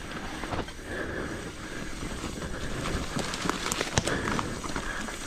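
Mountain bike rolling down a wet dirt trail: steady tyre and wind noise, with the chain and frame rattling and a few sharp clacks past halfway as it goes over bumps.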